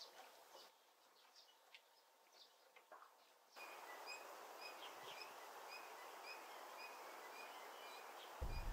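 Birds chirping outdoors, sparse and faint at first. After an abrupt change about three and a half seconds in, a steady hiss comes up, and one bird repeats a short chirp about twice a second. A low rumble like wind on the microphone starts just before the end.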